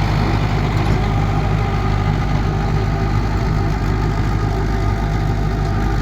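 Mahindra Arjun 605 tractor's diesel engine running at a steady, even speed.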